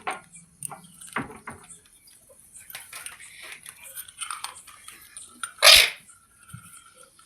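Parrot giving short calls and chatter, with one loud, harsh squawk about six seconds in.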